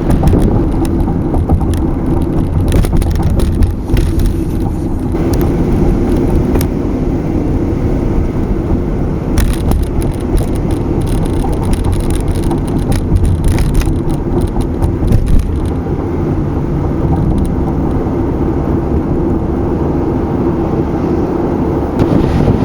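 Steady road noise of a car driving, a low rumble with scattered light clicks and rattles.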